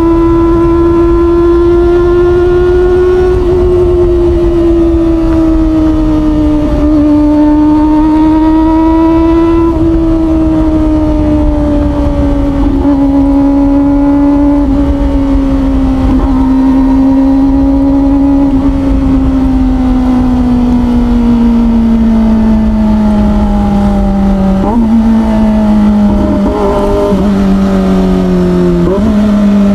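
Kawasaki Ninja ZX25R's inline-four engine through an Orion aftermarket exhaust, held at high revs while riding, its pitch easing slowly down. Near the end it gives two quick rev blips, as on downshifts.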